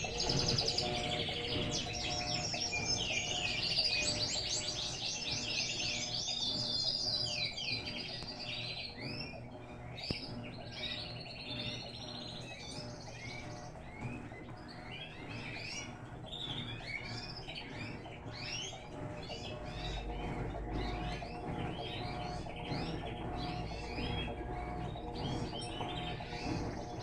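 Birds chirping busily, a dense run of quick repeated calls, over a steady low hum.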